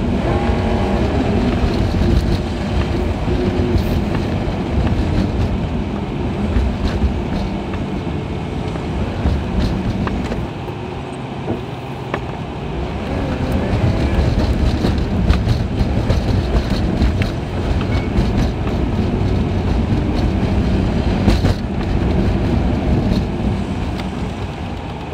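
Car driving, heard from inside: engine and tyre noise, sped up to three times normal speed, with short rises and falls in engine pitch and scattered clicks.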